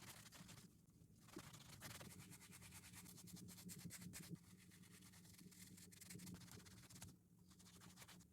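Faint brush scrubbing on a shoe: a dense run of quick scratchy strokes, pausing briefly near the start and again near the end.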